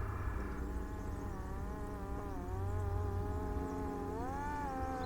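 Parrot Disco fixed-wing drone's electric motor and propeller buzzing in flight at low throttle, its pitch dipping about two seconds in and rising again about four seconds in.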